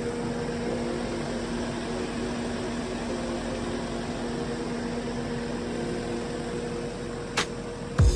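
Tractor diesel engine running at a steady, unchanging speed, a constant hum. A click comes near the end, then a sudden sharp sound with a falling low sweep just before it ends.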